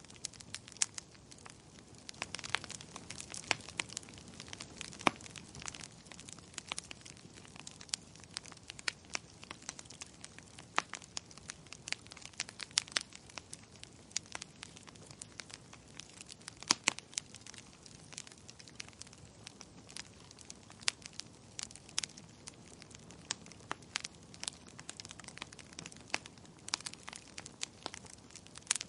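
Fire burning in a fireplace, crackling steadily over a soft hiss, with irregular sharp pops, a few of them much louder than the rest.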